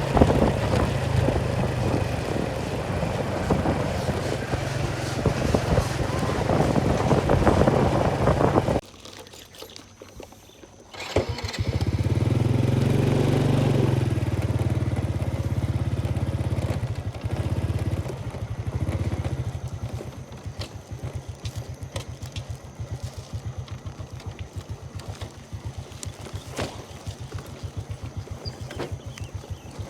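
Small engine running steadily. The sound cuts away abruptly about nine seconds in, returns after a couple of seconds and then settles to a fast, even idle.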